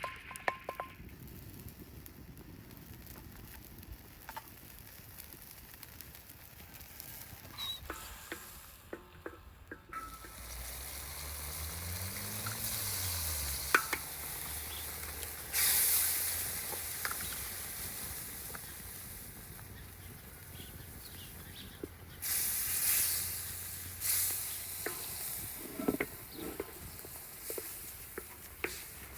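Tomatoes frying in a hot pan, sizzling, with stirring clinks and knocks. The sizzle starts about a third of the way in after some light knocking and swells sharply twice, about halfway and about three-quarters through.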